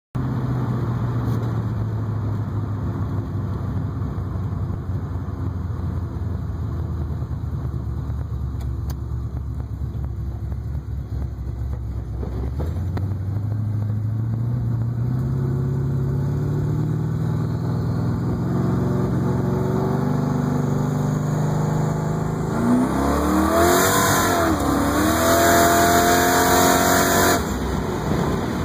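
Twin-turbocharged Ford Mustang two-valve V8 with a TH400 automatic, running steadily at first and then climbing in pitch as it accelerates. Late on the pitch rises sharply, dips at a short-shift from second to third, and climbs again with a hiss over the engine before the throttle lifts near the end.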